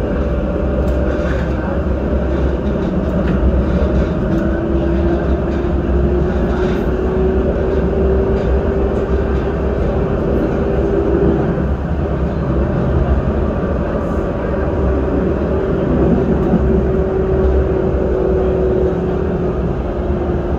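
Electric passenger train running: a steady low rumble, with a motor whine that starts about four seconds in, rises slightly in pitch and then holds.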